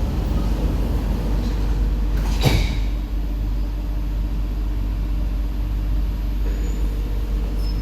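Interior running noise of an SMRT C151B train with its doors just shut, a steady hum with a steady low tone. A single sharp knock comes about two and a half seconds in, and a higher steady tone joins near the end.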